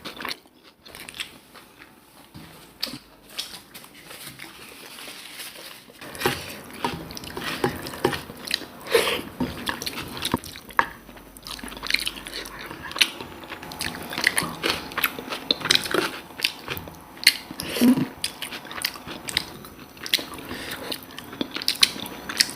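Close-miked eating: a person chewing and biting food, with frequent short wet mouth clicks and crunches, sparse for the first few seconds and then almost continuous.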